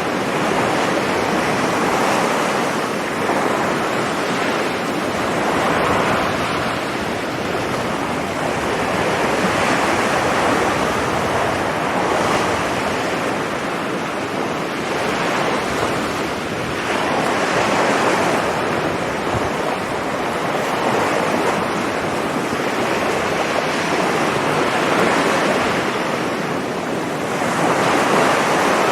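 Sea surf washing onto a sandy beach: a continuous rush of breaking waves that swells and eases every few seconds.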